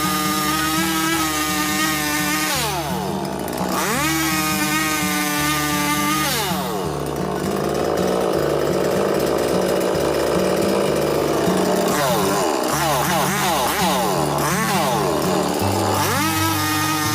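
Chainsaw revved up and down several times, each rev rising in pitch, holding briefly, then falling, with a rougher steadier stretch in the middle. Background music with a steady bass beat runs underneath.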